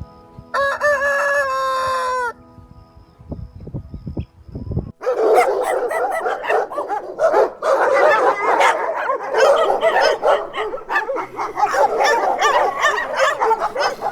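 A rooster crows once, a single drawn-out call that drops in pitch at its end. A few seconds later a flock of fowl breaks into loud, continuous clucking and squawking, many birds calling over each other.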